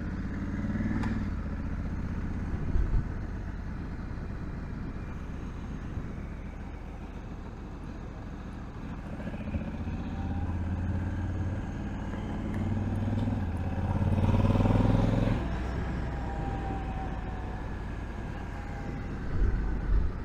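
Honda Africa Twin DCT's parallel-twin engine running as the motorcycle is ridden at low speed. The engine note rises as it picks up speed from about twelve seconds in, peaks around fifteen seconds and then drops back, with a couple of brief knocks along the way.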